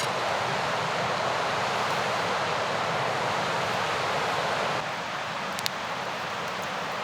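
Fast mountain river rushing in a steady, even wash of water noise. About two-thirds of the way through it drops slightly in level, and a single faint click follows shortly after.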